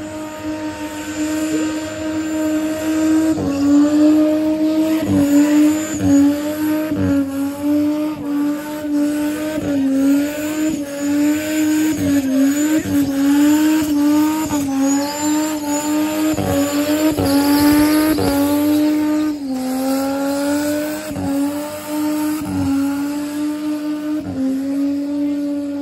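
Turbocharged Ford AU Falcon straight-six held at high revs in a burnout, the pitch sagging and recovering every second or so, with tyre squeal and occasional sharp pops from the exhaust.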